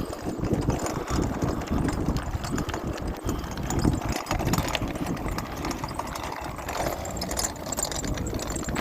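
Pull wagon rattling and knocking over pavement as it is pulled along, an irregular clatter of small bumps.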